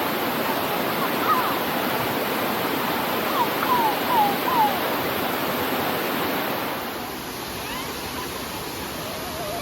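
Steady rush of waterfall water pouring over the cascades, with a few short distant voices calling out between about one and five seconds in. The rush drops a little in level about seven seconds in.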